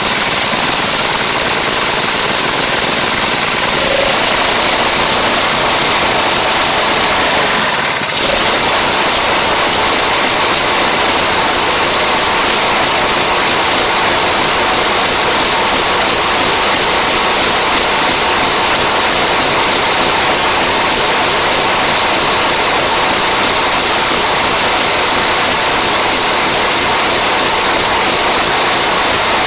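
Husqvarna ST224 snowblower's small gas engine running steadily just after starting, with a brief dip about eight seconds in. The engine is running on a carburetor that has just been worked on for surging.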